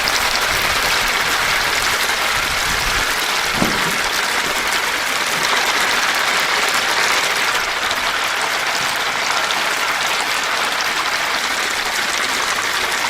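Hot oil sizzling steadily as chicken deep-fries in a fryer.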